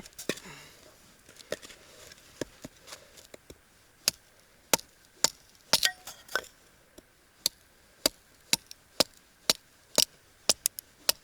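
Hatchet chopping firewood: a long run of sharp wooden chops, irregularly spaced, about one to three a second, some coming in quick clusters.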